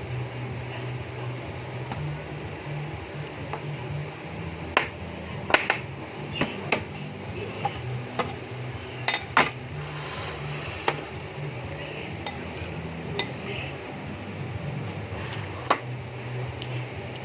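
Dishes and cutlery clinking at a meal, about a dozen sharp knocks at irregular intervals, the loudest in the middle. A steady low hum runs underneath.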